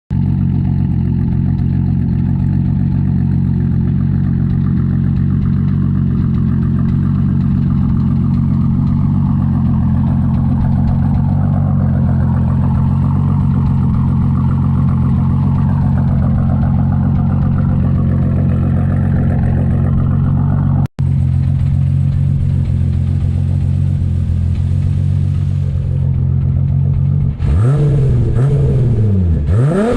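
Toyota Supra MK4's 2JZ inline-six, built with forged internals, a PT76GTS single turbo, GSC S2 cams and a custom 4-inch straight-through exhaust, idling steadily at the tailpipe. Near the end the throttle is blipped a few times, the pitch rising and falling quickly.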